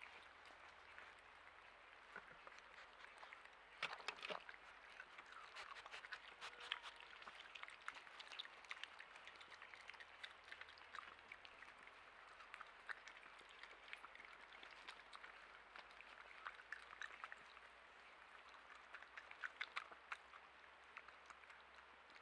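Faint steady rain hiss with scattered ticks of drops falling, louder clusters of ticks about four seconds in and again near the end.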